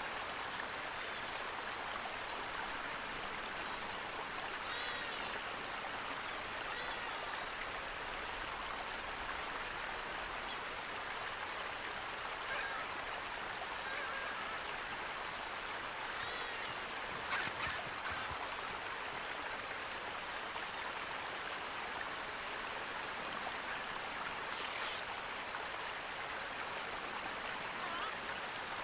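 Steady rushing of running water, with faint bird calls here and there. One short sharp sound a little past halfway.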